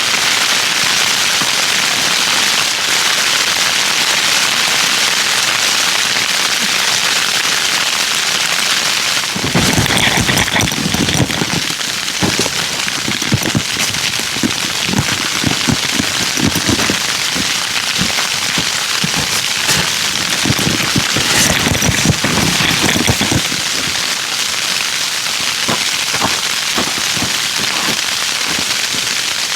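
Campfire burning with a steady hiss and crackle, with a run of irregular low knocks and pops from about a third of the way in until near the end.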